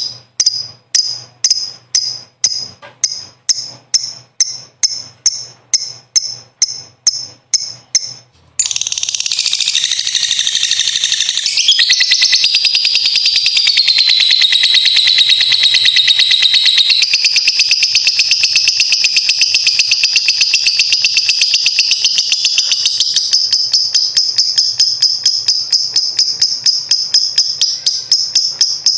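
Lovebird calling: about two sharp, high chirps a second, then about eight seconds in it breaks into a long, unbroken rapid chatter, the drawn-out 'ngekek panjang' trill.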